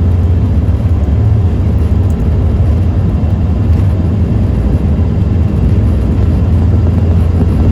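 Airbus A330 cockpit noise: a loud, steady rumble of engines and airflow, heaviest in the low end.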